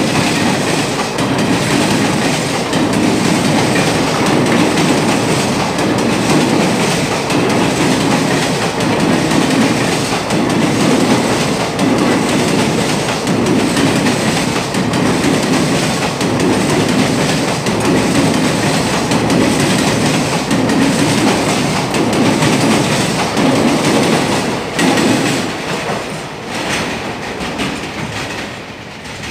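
Indian Railways passenger express of blue sleeper coaches passing at speed over a crossover: loud, rhythmic clatter of wheels striking the rail joints and crossing points, with some wheel squeal. The sound fades near the end as the last coach moves away.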